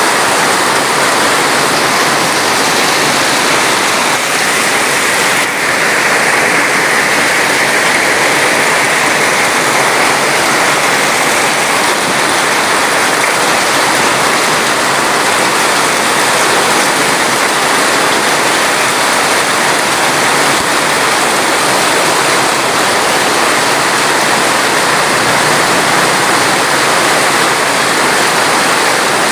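Steady rushing water: a loud, unbroken hiss with no separate drops or splashes.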